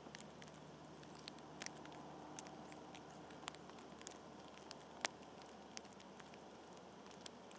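Scattered light taps and clicks at an irregular pace, the sharpest about five seconds in, over a faint steady outdoor hiss.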